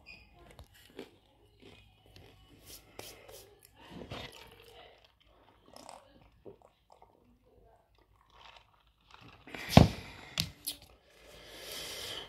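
Close-up chewing and crunching of tortilla chips, heard as many small crisp clicks. A single loud sharp knock comes about ten seconds in, followed by a soft papery rustle near the end.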